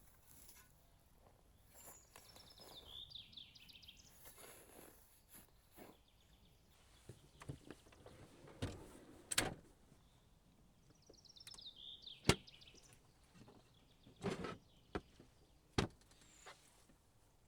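A songbird sings a short phrase of quick high notes falling in pitch, twice, about nine seconds apart. Several sharp knocks or cracks come now and then.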